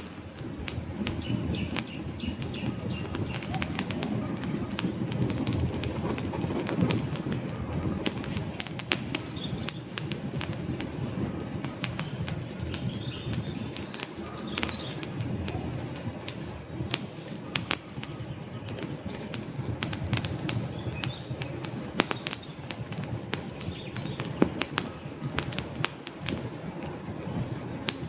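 Wood campfire burning: frequent sharp crackles and pops over a steady low rush of flame.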